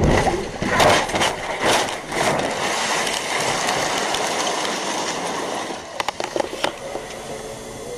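Steady road and vehicle noise from a moving car, with several sharp knocks: one about a second in, another about two seconds in, and a quick cluster of them near the end.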